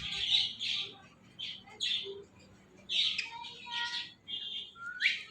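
Ringneck parrot calling in a series of short, high-pitched chirps and squawks with brief pauses between them.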